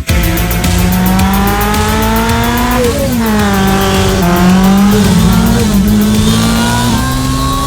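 Lancia 037 rally car's supercharged four-cylinder engine under hard acceleration. The pitch climbs steadily for about three seconds, drops sharply at a gear change, then holds at high revs with brief dips and rises again near the end.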